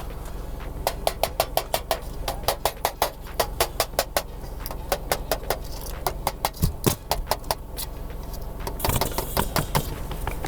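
Metal flashing being driven into place against a wall with a run of quick, light hammer taps, several a second, that stop after a few seconds, followed near the end by a short scraping rush. A steady low hum runs underneath.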